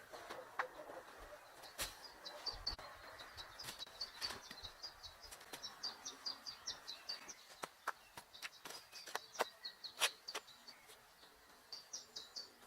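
A small songbird chirping in quick runs of short, high notes, with irregular sharp knocks and clicks throughout, the loudest about ten seconds in.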